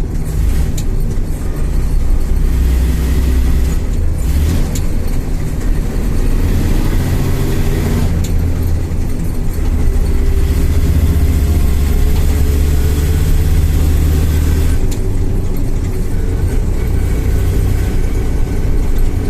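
IFA L60 truck's six-cylinder diesel engine running on the move, its note dropping and picking up again several times as gears are changed.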